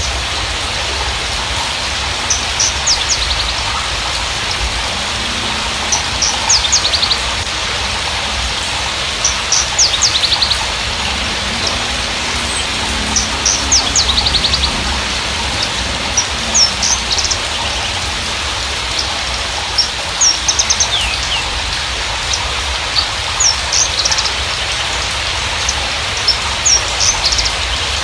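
Horsfield's bushlark (Mirafra javanica parva) singing: short bursts of high chirps and rapid trills every second or two, over a steady rain-like hiss.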